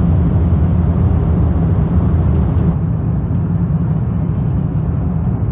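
Steady cabin noise of an Airbus A350-900 airliner in descent: a loud, even low drone of airflow and engines.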